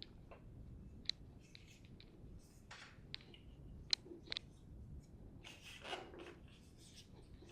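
Faint, scattered small clicks and handling sounds as a part is worked off the front of a Zwift Ride smart bike frame, with the sharpest clicks a little after a second in and around four seconds in.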